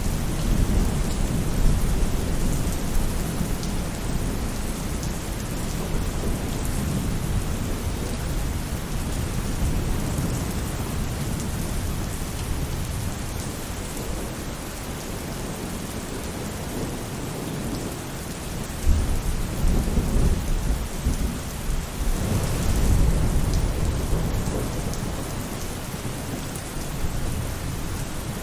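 Steady rain falling on a roof, with deep low rumbles that swell near the start and again about two-thirds of the way through.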